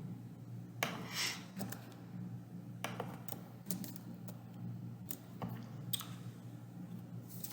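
Scattered keystrokes on a computer keyboard, a few irregular clicks at a time rather than steady typing, over a steady low electrical hum.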